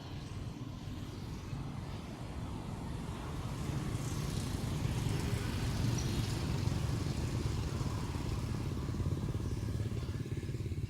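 A motor vehicle's engine rumbling, louder toward the middle and easing off slightly after.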